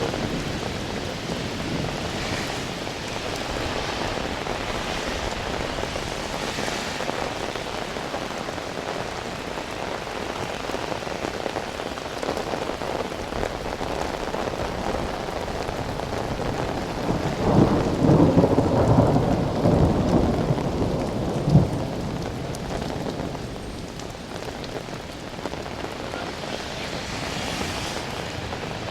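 Steady rain falling, with a roll of thunder rumbling a little past the middle for several seconds and ending in one sharp crack.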